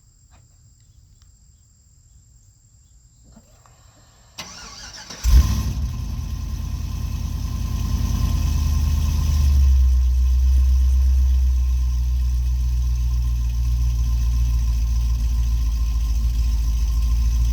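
The supercharged 6.2-litre V8 of a 2010 Cadillac CTS-V on E85 cranks briefly about four seconds in and catches on a cold start. It flares up when it fires, then settles into a steady high idle that drops a little a few seconds later. It breathes through headers, an X-pipe and stock mufflers with the cutouts closed.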